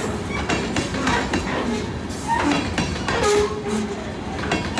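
Loaded aggregate hopper cars of a rock train rolling past, their wheels clacking over the rail joints, with brief squeals from the wheels.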